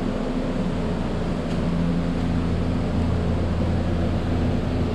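Steady low mechanical hum of a running machine, with a few low steady tones that grow stronger from about a second and a half in.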